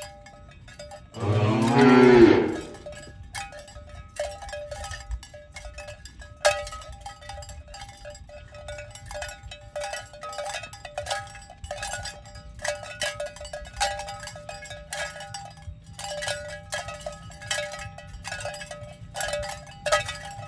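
A cow moos once, loudly, about a second in, over irregular clanking of cowbells on the walking herd that goes on throughout.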